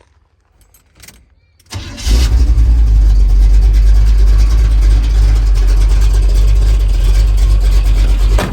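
A 1975 Chevy C10 pickup's engine starting about two seconds in after a few faint clicks, catching at once and then running loud and steady with a deep rumble.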